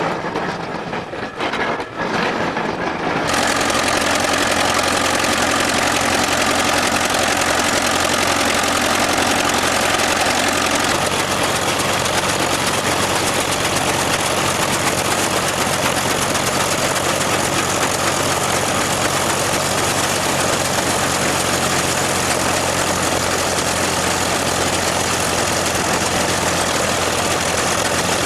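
Engine running steadily under an Oliver Red River grain threshing machine working, a dense even whir and rattle that comes in suddenly about three seconds in and holds steady.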